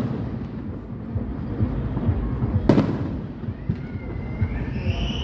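Fireworks: one shell bursting with a sharp bang about two and a half seconds in, over a low rumble. Near the end a rising whistle starts and levels off.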